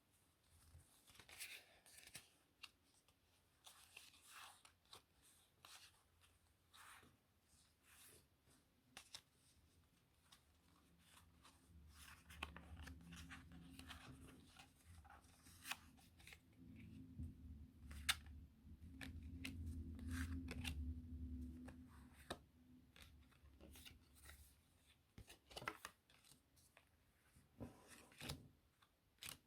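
Playing cards handled close to the microphone: quiet crisp clicks and brief rustles of card stock at irregular intervals, with a low muffled rumble through the middle stretch.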